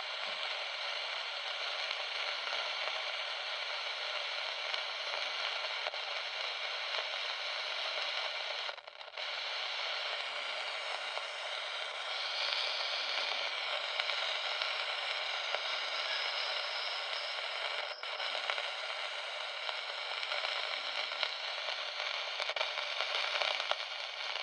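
Steady hissing, crackling static from a monitor that makes this noise when switched on, likened to radio interference. It drops out for a moment about nine seconds in.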